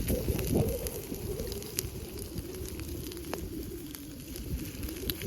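Wood campfire crackling with scattered sharp pops, under a steady wavering low tone that is loudest in the first second.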